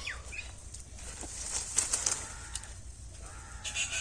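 Birds calling, with a few short bursts of rustling noise about two seconds in and again near the end.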